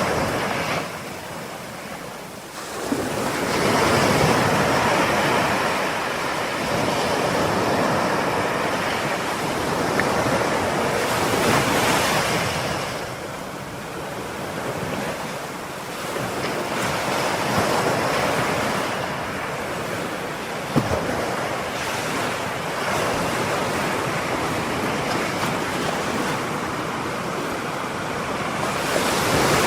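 Ocean surf breaking and washing ashore, rising and falling in slow surges several seconds apart, with a short sharp tick about two-thirds of the way through.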